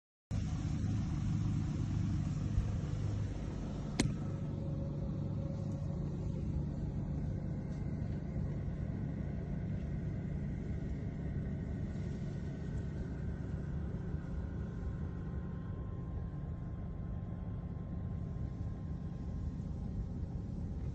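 Steady low vehicle rumble, with a single sharp click about four seconds in.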